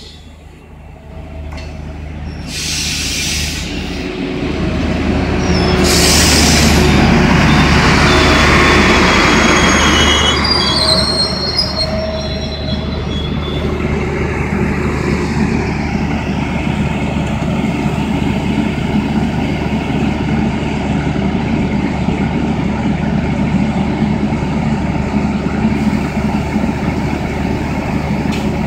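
A MAN class 621 diesel railcar approaches and passes close by, its engine and wheels growing loud, with two short hissing bursts on the way in. About ten seconds in, high squealing sets in as it brakes to a stop. Its diesel engine then idles steadily while the railcar stands.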